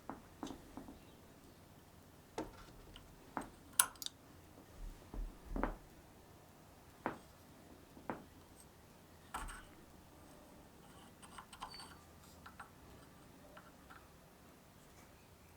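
Scattered light clicks and clinks of small metal parts and tools being set down and handled on a workbench, irregular and about a dozen in all, the sharpest about four seconds in.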